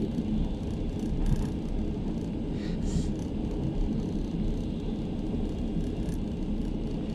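Passenger train carriage rolling along the track, heard from inside the compartment: a steady low rumble of wheels and running gear.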